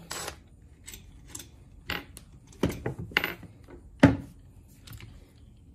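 Hand tools and the parts of a removed car starter motor clicking and knocking against each other in short, irregular taps, the loudest one a little past the middle.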